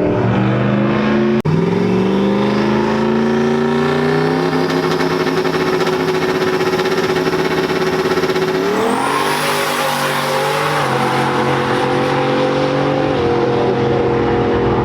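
Race car engine at a drag strip revving, its pitch climbing over a few seconds, then rising again about nine seconds in with a thin high whine before settling lower.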